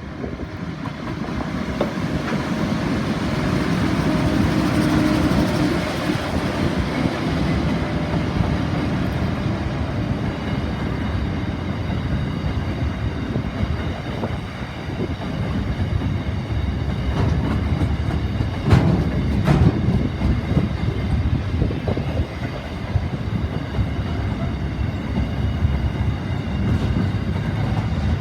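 Freight train of double-stacked container wagons rolling past, a steady rumble of wheels on rail that builds over the first few seconds. Two sharp clacks come close together about two-thirds of the way through.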